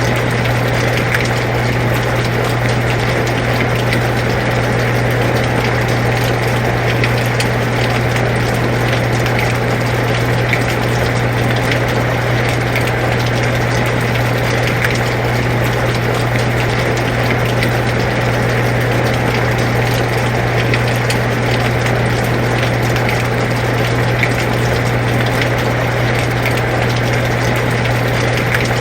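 Air conditioner's steady low hum together with the even hiss of rain falling, with faint scattered drop ticks; unchanging throughout.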